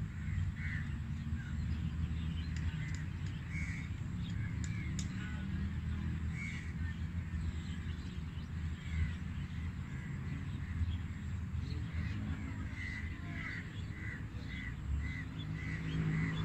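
Birds calling outdoors in short repeated calls, scattered at first, then in a quicker run of about two or three calls a second near the end, over a steady low rumble.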